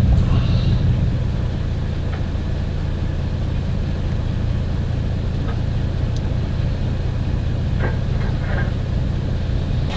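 Off-road truck engine running steadily at low revs while crawling over rocks, a low rumble with a few faint knocks near the end.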